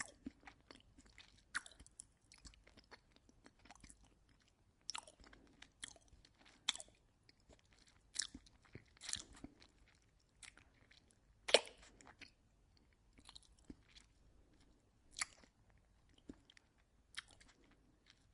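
A person eating oatmeal close to the microphone: irregular wet mouth smacks, chewing and spoon clicks, with one louder click about 11 seconds in.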